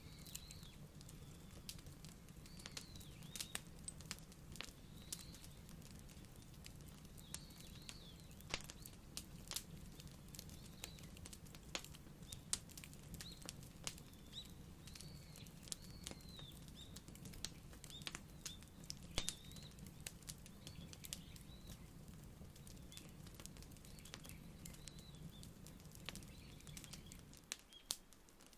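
Wood fire crackling, with sharp pops scattered irregularly throughout. Birds chirp repeatedly in the background, and a low steady hum drops away near the end.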